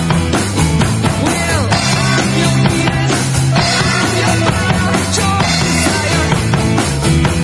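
Rock-style music with a drum kit keeping a steady beat over bass and guitar, with no singing.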